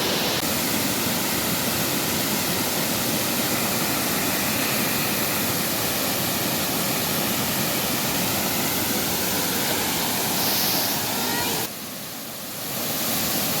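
Waterfall water rushing in a steady, loud noise, with a short dip in level near the end.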